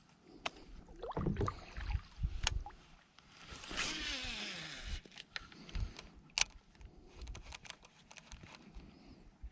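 Scattered small knocks and clicks on a plastic kayak hull, with a brief swishing rush about four seconds in.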